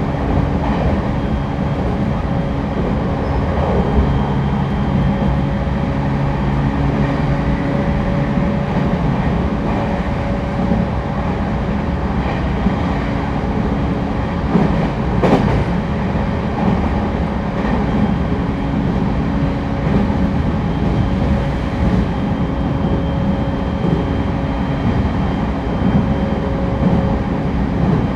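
Running sound heard inside a JR East E231-1000 series (renewed) commuter car at speed: a steady rumble of wheels on rail with faint steady hums, and a brief falling sound about halfway through.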